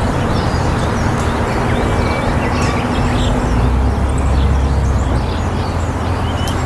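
Steady low rumble of traffic, with a faint level hum through the first half, and scattered short bird chirps over it.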